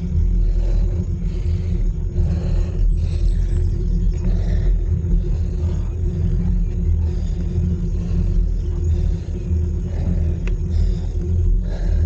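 Steady low rumble of wind and road noise on the microphone of a camera riding along on a road bike, with a faint steady hum throughout and a single small click about ten seconds in.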